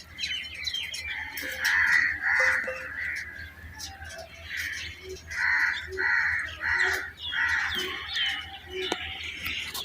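A bird giving short, harsh calls in quick runs of about two a second, mixed with small, higher, falling chirps.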